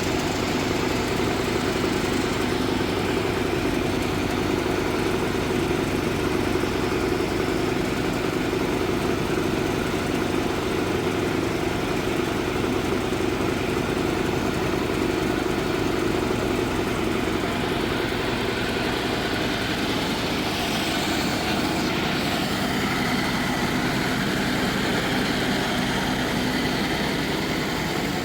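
An engine-driven machine running steadily.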